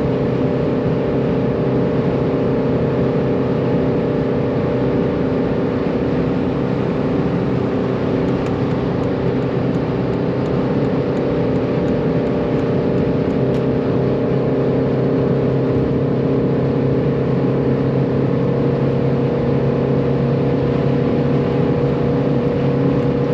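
Cabin noise of a Mercedes-Benz W201 190D cruising at about 140 km/h on the Autobahn: the old diesel engine's steady drone with wind and road noise, windows and roof closed. It stays even, with no change in engine speed.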